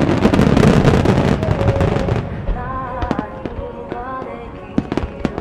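Fireworks display: a dense barrage of shells bursting and crackling for about the first two seconds, then thinning to scattered pops, with a couple of sharp bangs near the end. Music plays underneath as the bursts die down.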